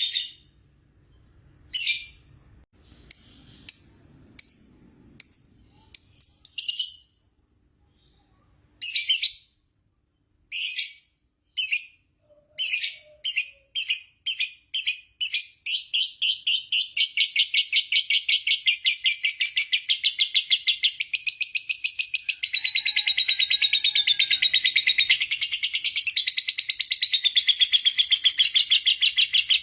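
Lovebird chattering in its long 'ngekek' song: short high chirps with gaps at first, then the notes speed up into a rapid, even pulsing chatter that runs on unbroken as one long trill for the second half.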